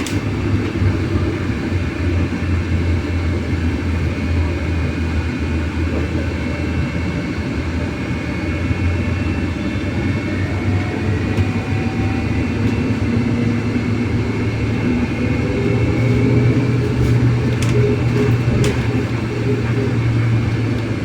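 Cabin noise of a MAZ-303E10 electric bus on the move: a steady low rumble with a faint high whine, growing a little louder near the end.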